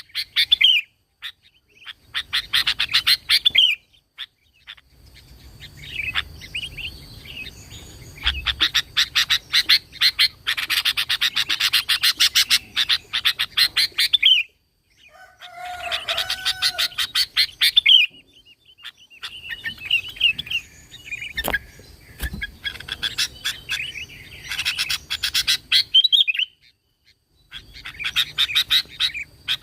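Sooty-headed bulbul (kutilang) singing in bursts of rapid chattering notes, each burst lasting one to several seconds, with short pauses between.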